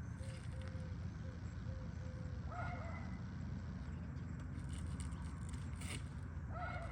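Steady low outdoor rumble with a few brief, faint chirps and light clicks.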